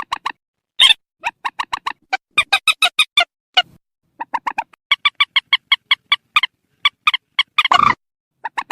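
Purple swamphen calls: rapid runs of short, clucking notes, about four to five a second, broken by brief pauses, with one harsh screech near the end. This is a lure recording of a calling bird, used to draw swamphens to nets.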